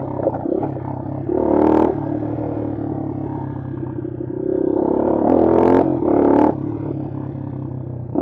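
Bashan Brozz 250 dual-sport motorcycle's single-cylinder engine running under the rider on a trail. It revs up twice, about a second in and again around five seconds in, rising in pitch each time before dropping back.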